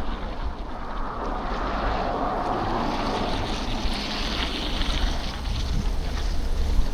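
Wind rumbling on the microphone over city traffic on a wet, snowy street. A hiss of tyres on slushy pavement swells and fades between about two and five seconds in.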